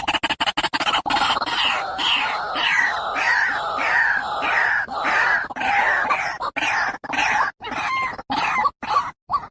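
White-breasted waterhen calling: a fast run of rasping pulses, then a series of falling notes just under two a second. The notes grow irregular and more widely spaced until the calling stops at the end.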